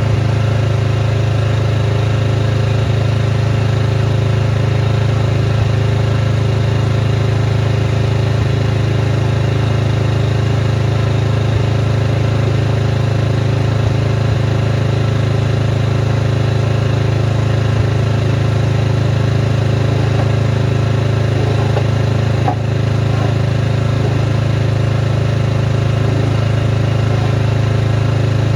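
Snowblower engine running steadily at constant speed.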